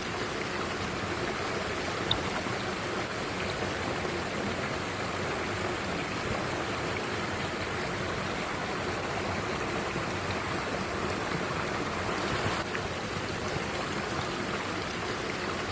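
Mountain stream water rushing steadily over rocks, with one brief click about two seconds in.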